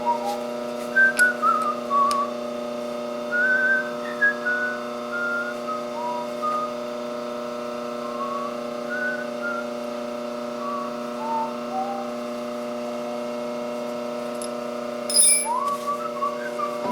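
A whistled tune of short, sliding notes over a steady held drone, like a music track with a whistled melody.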